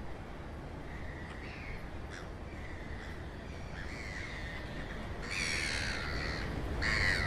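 Birds calling over a steady low rumble: a few faint calls in the first seconds, then louder, longer calls from about five seconds in and again near the end.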